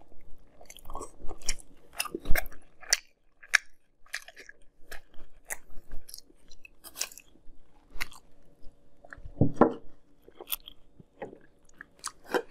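Close-up chewing of a mouthful of Fruity Pebbles cereal in milk: irregular small crunches and wet mouth clicks.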